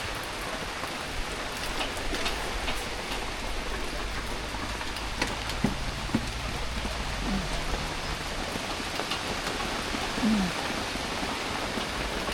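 Heavy rain falling in a steady hiss, with scattered sharper ticks of individual drops.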